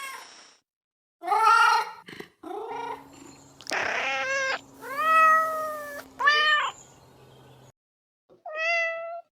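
Domestic cat meowing about six times in a row, the calls varying in pitch and length, several rising then falling. The meows come as separate recordings with dead silence between them, some with a faint steady hum underneath.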